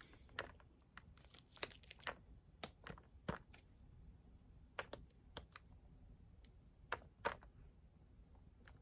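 Faint, irregular clicks and light rustling, like small objects being handled, over quiet room tone.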